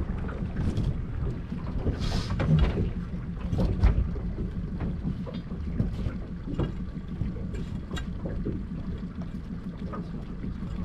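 Wind rumbling on the microphone, with scattered knocks and clatter and a brief hiss about two seconds in.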